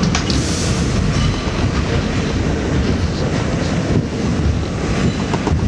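R68 subway car running through the tunnel, heard from inside the car: a steady loud rumble with wheels clattering over the rail joints, and a few sharp clicks near the end.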